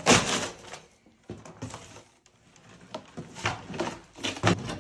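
A shipping crate being handled and opened: a scrape followed by scattered knocks, clicks and a few thumps.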